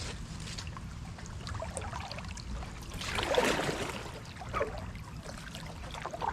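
Kayak paddle dipping into and pulling through lake water, with one louder splashing stroke about three seconds in and small drips and ticks of water between strokes, over a low steady rumble.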